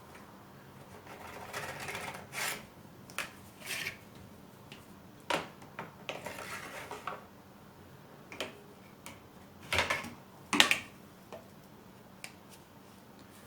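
Heater fan parts being handled and cleaned on a bench: irregular clinks, scrapes and rubbing of small metal and plastic parts, with two louder knocks a little past the middle.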